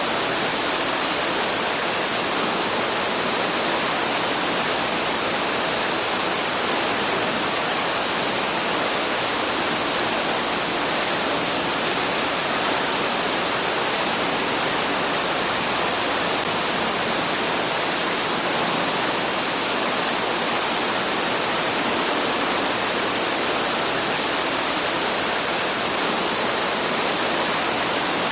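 Waterfall rushing in a steady, unbroken hiss of falling water, with no bird calls standing out.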